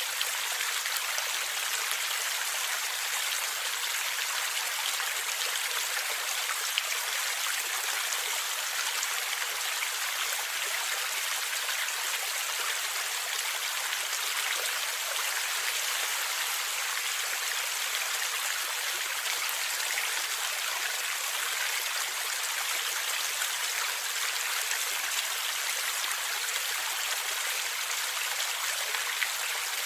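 Stream water flowing and gurgling steadily, a continuous rushing with small splashes and trickles.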